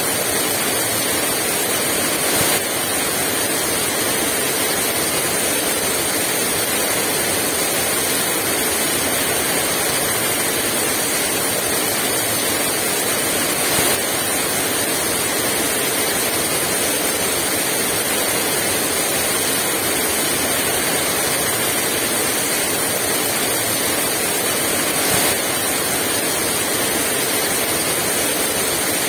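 Heavy rain falling in a steady, dense downpour, with no wind, and a slight swell in level three times.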